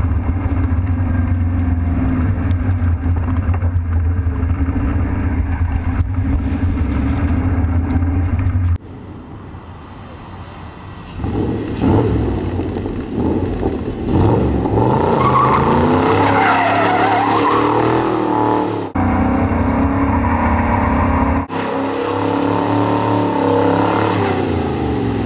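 Ford 5.0 L Coyote DOHC V8 in a '33-style hot rod roadster: a steady engine drone heard from inside the open car, then the engine revving up and down hard with tires squealing as the car spins on pavement. Abrupt edits switch several times between the steady cruising sound and the revving and squeal.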